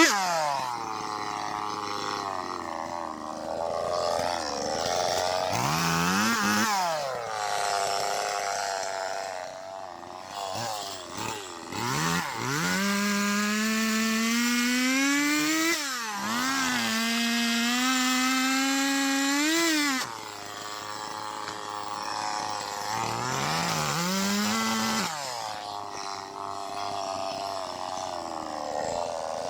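Two-stroke chainsaw cutting dead ash logs. The engine revs high and steady, then its pitch drops and climbs back several times as the cuts load and free the chain.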